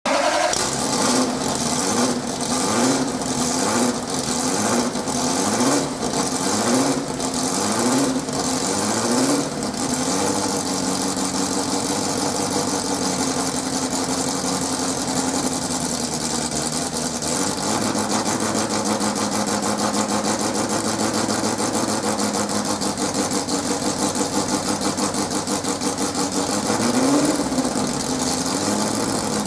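Ford GT40 Mk1's V8 engine being blipped with short throttle revs about once a second, then settling into a steady idle, with one more brief rev near the end.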